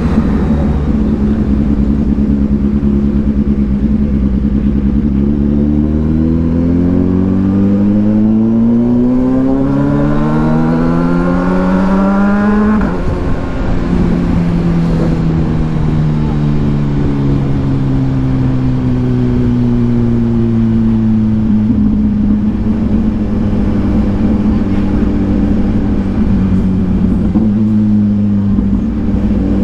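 Kawasaki Ninja 1000SX inline-four through an aftermarket AR exhaust, ridden under way. Its pitch climbs steadily for several seconds under acceleration, cuts back abruptly about halfway, then falls slowly as the bike slows, and settles into a steady run near the end.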